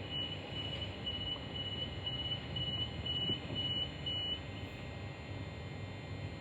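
Electric suburban train's door-closing warning beeper: a high beep repeated about twice a second, stopping about four and a half seconds in, over the low steady rumble of the train.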